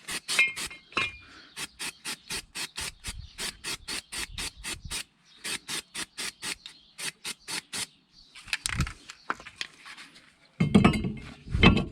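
Aerosol can of copper brake spray being shaken, its mixing ball rattling in a quick even rhythm of about five clicks a second, with a short break partway through. Near the end come two louder bursts of noise.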